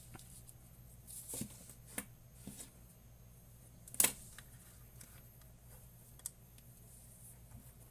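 Scattered light clicks and taps of small parts and equipment being handled on a bench, with one sharp click about four seconds in, over a steady low hum.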